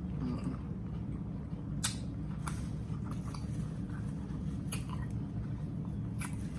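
A person chewing a big bite of grinder sandwich, with scattered wet mouth clicks and crunches, the sharpest about two seconds in, near five seconds and near the end. A steady low hum runs underneath.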